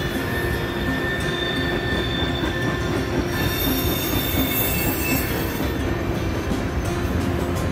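Freight train of tank cars rolling steadily past: a continuous rumble of steel wheels on rail, with thin high-pitched wheel squeal held through it.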